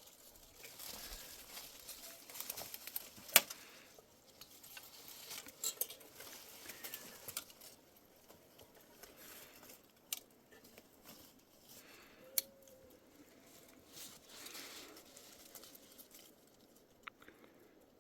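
Irregular rustling and crinkling handling noise, broken by a few sharp clicks; the loudest click comes about three seconds in.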